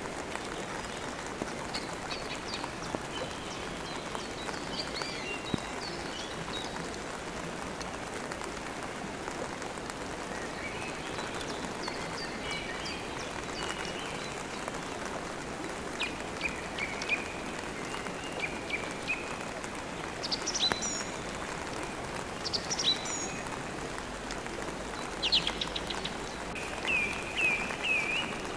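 Steady rain falling, with birds chirping on and off over it: short runs of quick repeated chirps, and a few higher, sharper calls in the second half.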